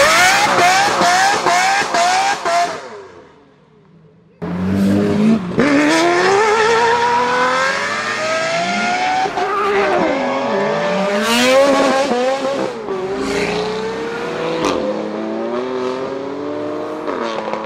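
Lamborghini Murciélago LP640's V12 on straight-piped exhaust, accelerating hard: its pitch climbs, drops at each gear change, then climbs again. The sound fades out about three seconds in and returns abruptly about a second and a half later.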